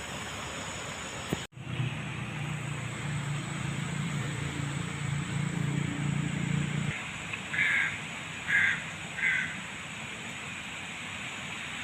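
A crow caws three times in quick succession over steady outdoor hiss. Before the caws, a low steady hum runs for several seconds and then stops.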